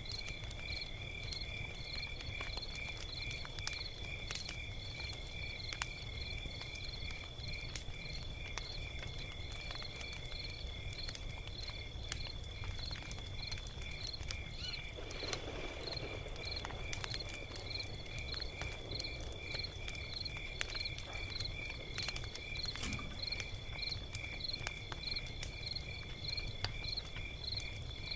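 Log fire crackling with scattered sharp pops over a low steady rumble. Crickets chirp throughout in an even rhythm with a constant high trill. A brief soft whoosh comes about halfway through.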